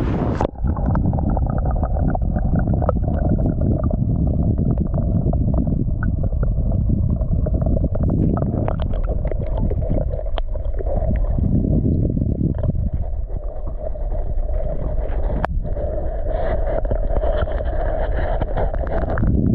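Muffled rushing and gurgling of river current, heard through a camera microphone held underwater. About half a second in, the sound turns dull and low as the microphone goes under.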